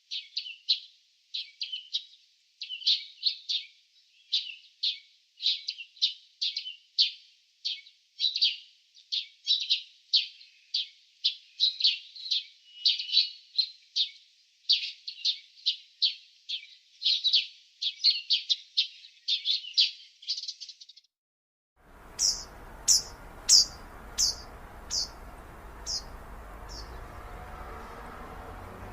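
Songbird chirping in a rapid, steady string of high notes, about two or three a second. After a short silence about 21 seconds in, a different bird gives a run of about seven thin, very high chirps that grow fainter, over a steady outdoor hiss.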